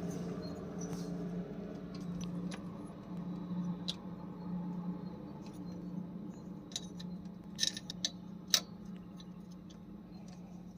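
Scattered metallic clicks and ticks of spanners on a diesel truck's injector pipe fittings as the loose nozzle-pipe unions are tightened to stop a fuel leak, the sharpest clicks late on, over a steady low hum.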